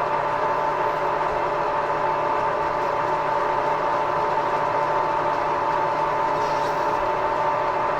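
Edgwick metal lathe running at a steady speed, a constant mechanical whine with a low hum beneath it, while it turns a nylon part down by about a millimetre.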